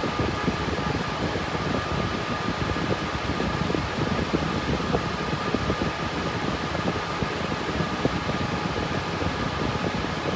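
Cooling fans of a GPU cryptocurrency mining rig with RTX 3060 Ti cards running under load: a steady rush of air with two faint high whines over it.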